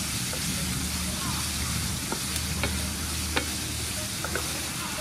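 Sliced sea snail sizzling in oil in a frying pan while a wooden spatula stirs it, with a few sharp clicks of the spatula against the pan over a low steady hum.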